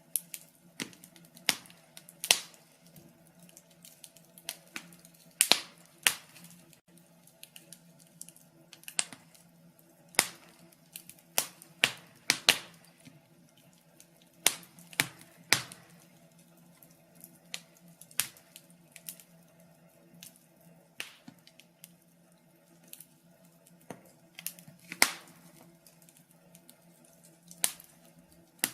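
Wood fire crackling in a fireplace: irregular sharp pops and snaps, some single and some in quick clusters, a few much louder than the rest, over a faint steady hum.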